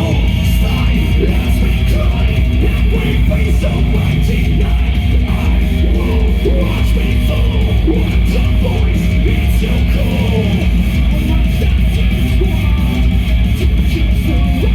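Live heavy metal band playing a song, electric guitars prominent, loud and unbroken.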